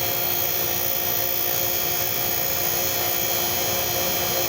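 Refrigeration vacuum pump running steadily, pulling a vacuum on the refrigerant system.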